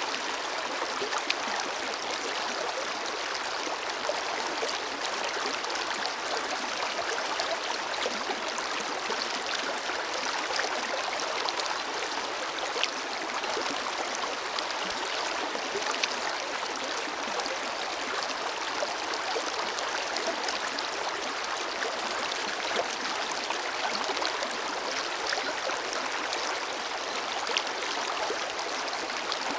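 Forest river flowing steadily over rocks, a continuous rushing of water with small splashes and gurgles throughout.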